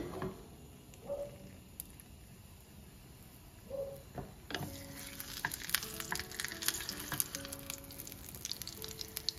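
Egg-battered chile relleno frying in hot oil: a dense sizzling crackle that starts suddenly about halfway through and keeps spitting. Light background music underneath.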